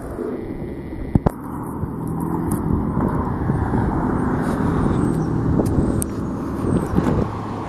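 A car driving past on the street, its engine and tyre noise growing louder to a peak about four seconds in and then fading.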